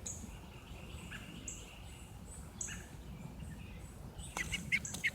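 Small birds chirping: short, high-pitched chirps repeat every second or so, with a quick run of sharper calls near the end.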